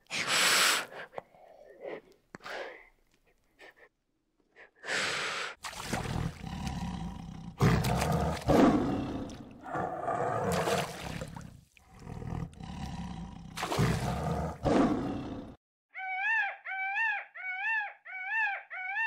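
A tiger roaring and growling in a series of loud, deep calls for about ten seconds, opened by a short hiss from an Asian water monitor. Near the end a peacock gives a quick run of about six short calls, each rising and falling in pitch, a little over half a second apart.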